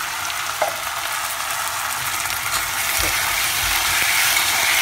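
Peas and sliced onion frying in olive oil in a stainless steel pot: a steady sizzling hiss, with one sharp clink a little over half a second in and a spoon stirring through the peas toward the end.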